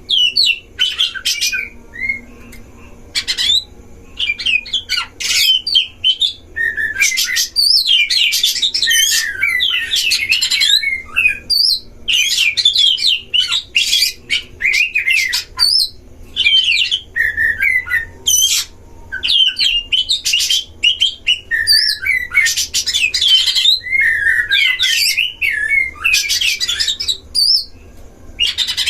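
Oriental magpie-robins (kacer) singing against each other: a rapid, near-continuous stream of high, fast-changing whistled and chattering notes with short pauses.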